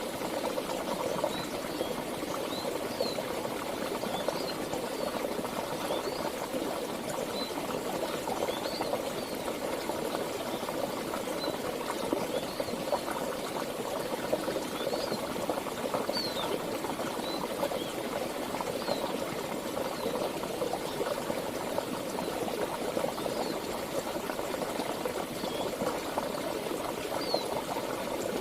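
Flowing river water: a steady, even rush, with brief high chirps, like small birds, scattered through it.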